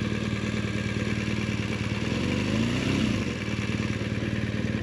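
BMW R 1200 GS boxer-twin engine running steadily in limp mode. About two and a half seconds in, a brief rev rises and falls back.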